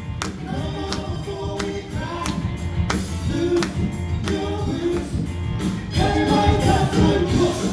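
Live band playing an up-tempo song with group vocals and a steady, driving drum beat; it grows louder and fuller about six seconds in.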